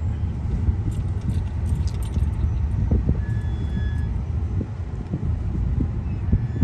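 Steady low rumble of a car driving over a rough, potholed road, heard from inside the cabin, with light rattles and clinks from loose items jostling, mostly between one and two seconds in.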